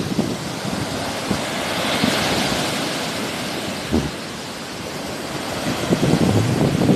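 Sea waves washing onto the shore, one swelling into a broad hiss about two seconds in and fading away, with wind gusting on the microphone as a low rumble at the start and near the end.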